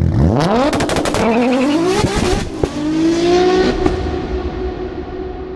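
Car engine revving hard in several rising sweeps, with a few sharp pops along the way, then holding a steadier note that fades out near the end.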